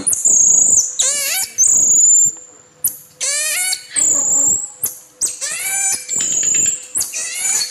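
Bird calls: repeated bursts of quick falling chirps, each burst a rapid run of notes, alternating with high, thin, held whistles.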